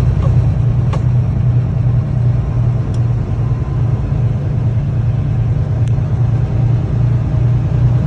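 Steady low drone of engine and road noise inside a moving vehicle at highway speed.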